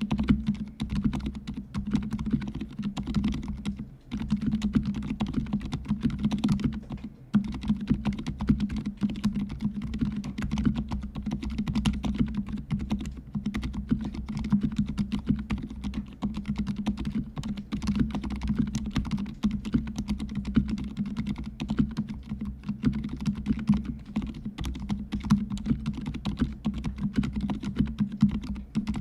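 Continuous fast typing on a fully lubricated mechanical keyboard with silent red linear switches: a dense stream of soft, low keystrokes with no pauses.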